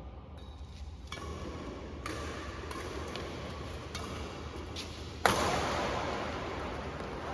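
Badminton rackets striking a shuttlecock in a rally: several sharp, separate pops about a second apart. About five seconds in comes a much louder sudden hit, followed by a lingering wash of noise.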